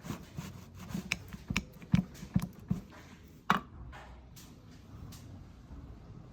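Light clicks and knocks of metal engine parts and tools being handled on a workbench, about a dozen in quick succession, with a sharper knock about three and a half seconds in. After that it goes quiet.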